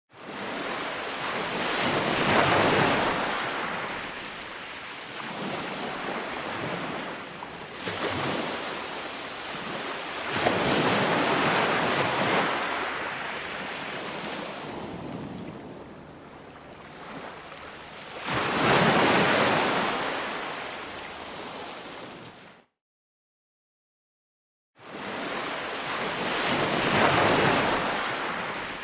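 Ocean waves breaking and washing in, the surf swelling and fading in surges about every eight seconds. The sound cuts out to dead silence for about two seconds near the end, then the waves resume.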